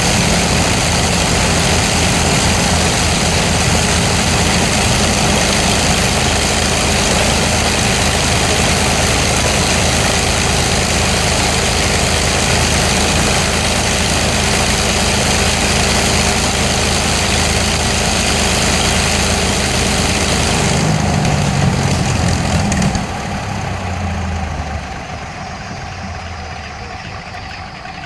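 Avro Lancaster PA474's Rolls-Royce Merlin V12 piston engines running loud and steady on a ground run, then shutting down about 23 seconds in: the sound drops and winds down in pitch as the engines stop.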